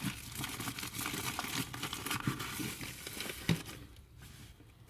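Bubble wrap crinkling and rustling as a model train wagon is unwrapped by hand. About three and a half seconds in there is a sharp click, and after that it quiets down.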